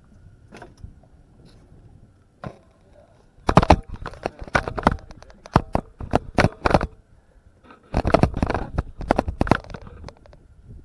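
Two bursts of rapid, loud knocking and rattling, each a few seconds long, with a short pause between them.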